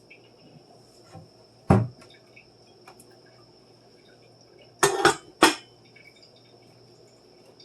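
Dishes clinking as they are put away: one sharp clink about two seconds in, then three close together about five seconds in, over a faint steady hum.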